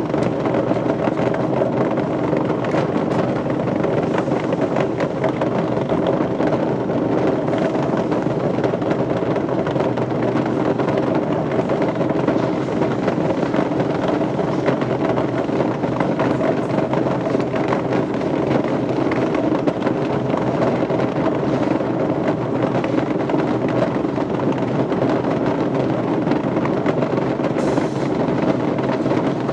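Steady, loud machinery noise that runs without change, with a faint hum of steady tones in it.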